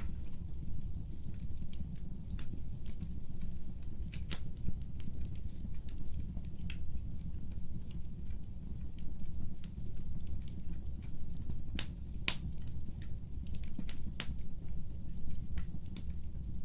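Fire in a fireplace crackling: a steady low rumble of flames with scattered sharp pops and snaps, two of the louder ones about two-thirds of the way through.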